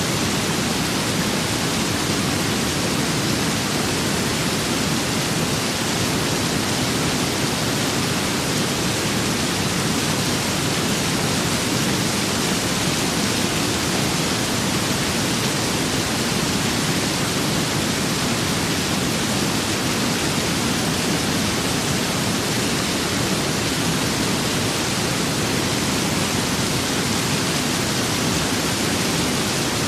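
Steady rain-and-wind ambience: a constant, even hiss with no separate drops, gusts or swells.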